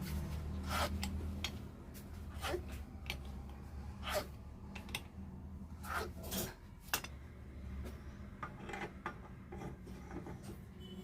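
Metal tools and alternator parts clinking and scraping in irregular knocks, over a steady low hum.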